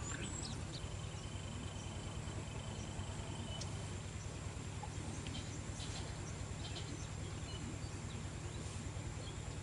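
Waterside outdoor ambience: a steady high-pitched insect drone with scattered short bird chirps over a low steady hum.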